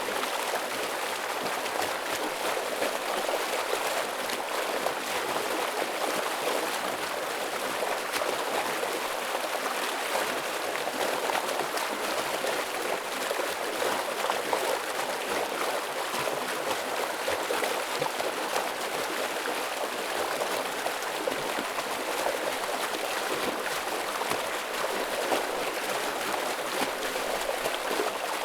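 Forest stream running heavily over rocks: a steady rush of flowing water.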